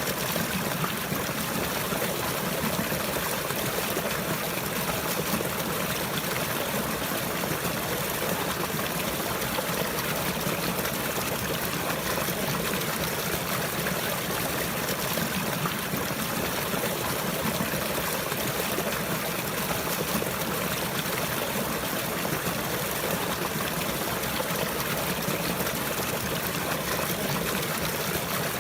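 Water running and trickling steadily in an even, unbroken rush, like a stream.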